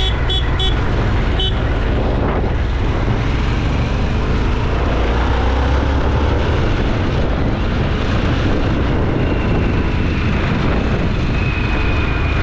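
Motorcycle ridden on the road: the engine runs steadily under heavy wind and road noise on the camera microphone. A few short high beeps sound in the first two seconds.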